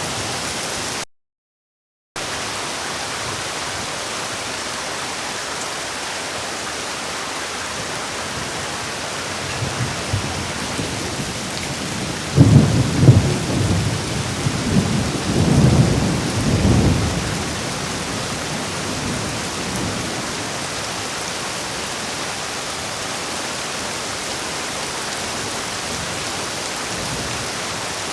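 Heavy rain falling steadily, with a roll of thunder rumbling in about ten seconds in, loudest in the middle and dying away a few seconds later. Near the start the sound cuts out completely for about a second.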